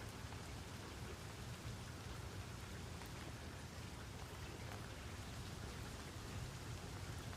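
Steady rainfall, an even hiss of rain on surfaces with scattered drop ticks over a low rumble.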